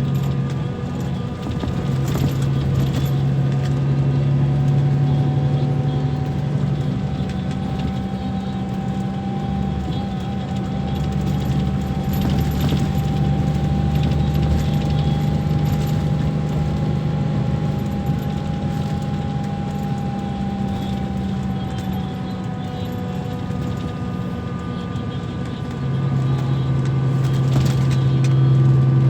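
Scania K340 bus engine running, a steady low drone with a faint whine that rises and falls slowly through the middle. It gets louder again near the end.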